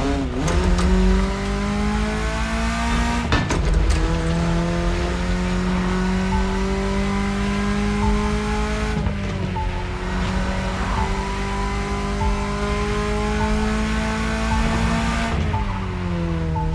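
BMW E30's engine pulling through the gears: its note climbs slowly in each gear and drops at each gear change, about three times, with a few sharp clicks around the first two shifts.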